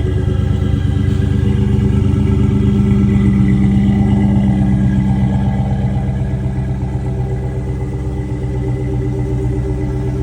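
Car engine running at a steady idle, swelling slightly for a few seconds partway through and then settling back.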